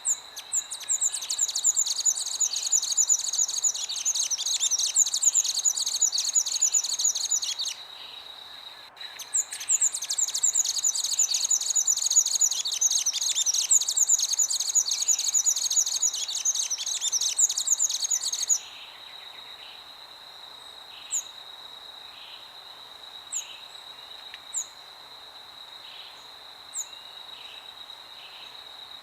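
Songbirds singing a fast, dense stream of high notes in two long bouts separated by a short pause, over a steady high-pitched insect drone. After about 18 seconds the song stops and only a few short, high chirps break the insect drone.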